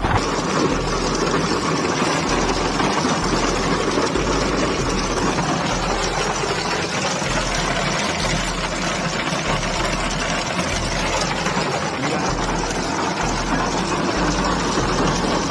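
Hurricane wind in a steady, loud rush, buffeting the microphone in uneven low rumbles.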